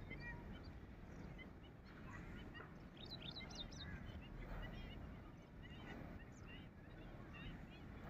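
Birds calling in scattered short chirps, with a busier run of quick calls about three seconds in, over a faint low rumble.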